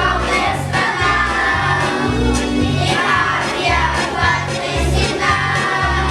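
Children's choir singing a song over a backing track with a steady bass beat.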